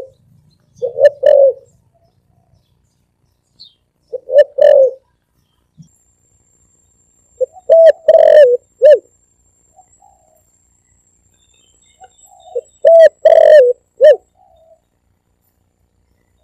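Spotted dove (tekukur) cooing as a recorded lure call: four short, loud phrases of low coos a few seconds apart, with silence in between.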